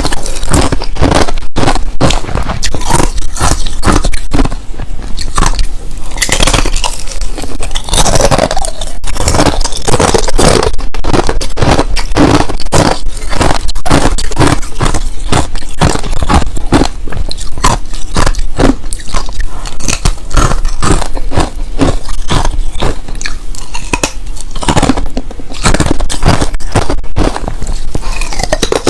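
Crushed ice being bitten and chewed close to the microphone: a rapid run of loud, sharp crunches, several a second, with no pause.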